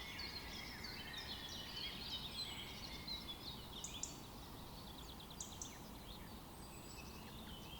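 Several small songbirds chirping and twittering over a steady outdoor hiss, busy at first and thinning out about halfway through.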